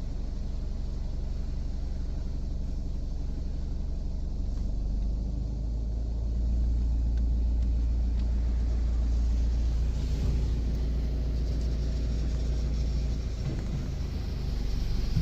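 Mr Magic Automagic automatic car wash at work, heard from inside the car: a steady low rumble, with a higher hiss joining about ten seconds in and growing toward the end.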